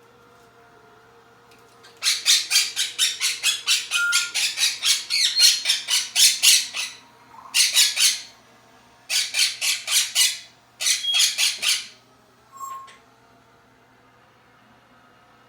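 Pet parrot squawking: fast runs of loud, harsh, rapidly repeated calls, about five a second, the first run lasting about five seconds and followed by three shorter runs and one brief note.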